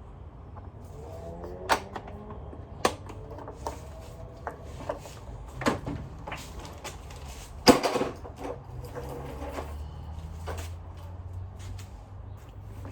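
Parts of a Sanitaire vacuum cleaner being handled: a string of irregular clicks and knocks, the loudest near the middle, with a faint wavering squeak twice.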